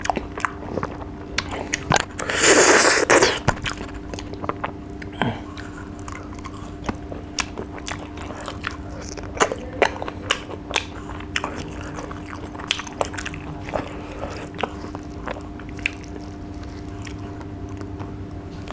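Close-miked mouth sounds of someone eating rice and fish by hand: steady chewing with many small wet clicks and lip smacks. About two seconds in there is one louder rushing sound lasting about a second, over a faint steady hum.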